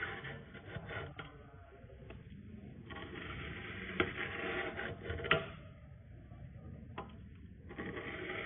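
A lawn mower blade drawn through a sharpener's tungsten steel rods: rasping metal-on-metal scrapes in strokes of about two seconds with short pauses between, and sharp clicks as the blade meets or leaves the rods.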